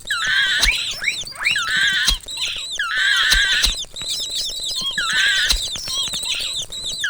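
Mouse squeaking sound effect: rapid, overlapping high-pitched squeaks and chirps that glide up and down, with a few short clicks among them.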